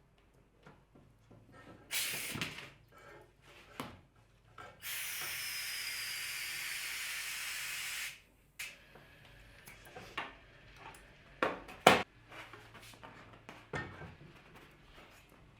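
A steady hiss of escaping air or spray lasting about three seconds, with a faint falling whistle in it. Scattered workshop knocks and handling sounds come before and after it, with a sharp knock near the end the loudest.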